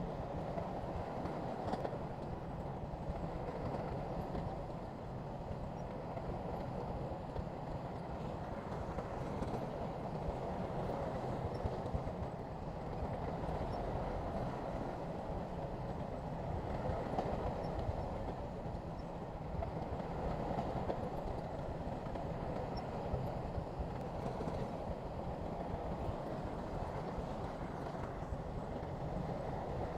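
Heavy earthmoving machinery working: a diesel engine runs steadily under load, a continuous low rumble with no pauses.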